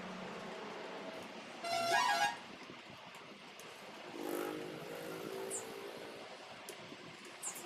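A vehicle horn honks once, briefly, about two seconds in, over steady background street noise; a lower, steady droning tone follows a couple of seconds later.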